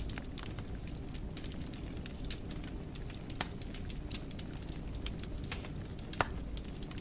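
Fire crackling in a fireplace: frequent small sharp pops over a low, steady rumble of flames, with one louder pop about six seconds in.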